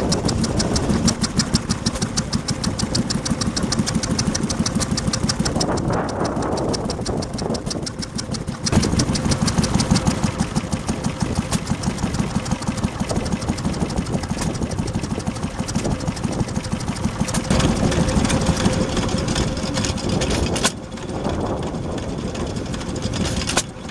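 Vintage stationary engines running with a fast, even exhaust beat. The sound changes in level and tone at about nine seconds and again near twenty-one seconds.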